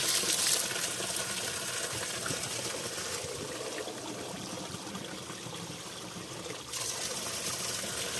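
Mountain spring water running and gushing as a steady rush. It grows softer in the middle and comes back suddenly near the end.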